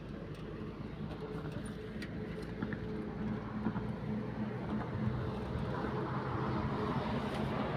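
A motor engine's steady hum, growing gradually louder as it draws closer.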